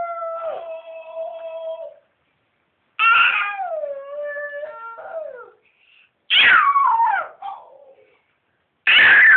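A cat yowling: a long, held cry, then three drawn-out calls that waver and fall in pitch, each about a second long.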